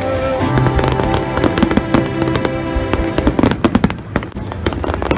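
Fireworks display: many sharp bangs and crackles of bursting shells, coming thicker in the second half, with music playing underneath.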